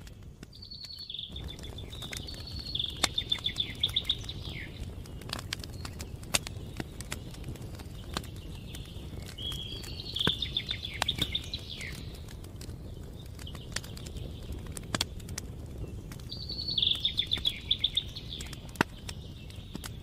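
A songbird singing three short phrases, about six to seven seconds apart, each ending in a fast trill, over the scattered crackles and pops of a campfire.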